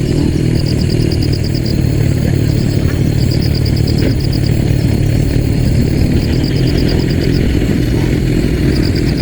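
A motor running steadily, with high, rapid pulsing chirps in runs of about a second repeating every few seconds over it.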